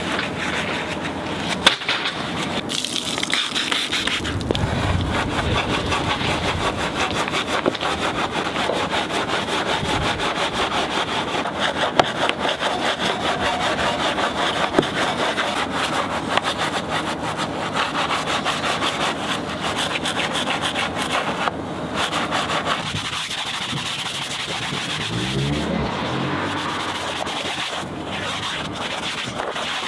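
Stiff detailing brushes scrubbing a muddy truck wheel, tyre and arch, a steady rubbing scrub. About 25 seconds in, a motor starts up with its pitch rising.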